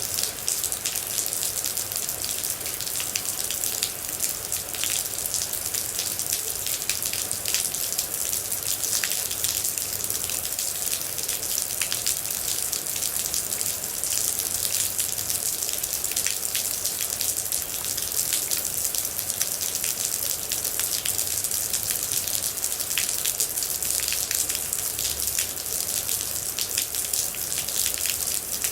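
Steady rain falling, a dense even hiss with many individual water drops ticking sharply through it.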